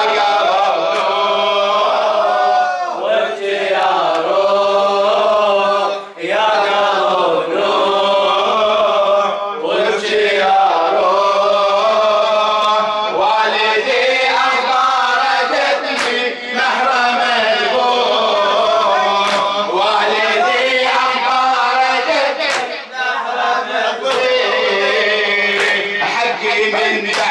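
A group of male mourners chanting a Shia latmiyya (nawha) refrain together, with sharp chest-beating strikes scattered through the chant.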